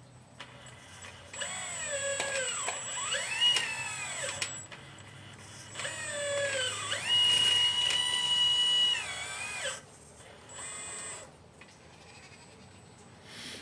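Electric hydraulic pump motor of a 1/12-scale Liebherr 954 RC excavator whining in several bursts as the controls are worked, its pitch sliding up and down with the load; the longest burst, about halfway through, holds a steady high pitch for a couple of seconds.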